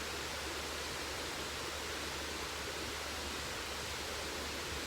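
Waterfall rushing: a steady, even wash of water noise with no breaks.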